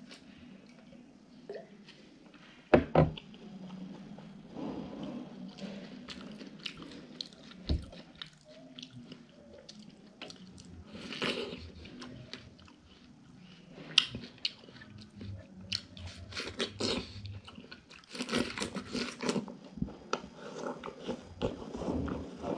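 Close-miked eating sounds: a person chewing and crunching watermelon, with sharp bites and mouth clicks scattered throughout. A single loud knock comes about three seconds in.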